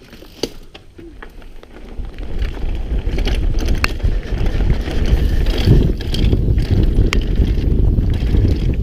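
Mountain bike riding down a rough trail, heard from a chin-mounted GoPro. Quiet with a few sharp clicks for the first two seconds, then a loud rumble of tyres, wind and rattling bike builds up as it gathers speed, with scattered clicks and knocks.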